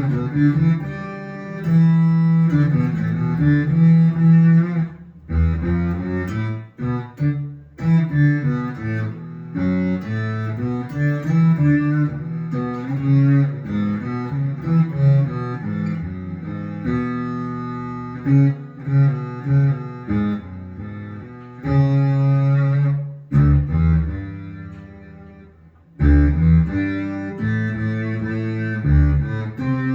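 Electric guitar played through a Boss SY-200 guitar synthesizer pedal on its Cello lead preset, giving bowed-cello-like synth notes. The notes run as low melodic phrases with short breaks, and there is a longer pause about three-quarters of the way through.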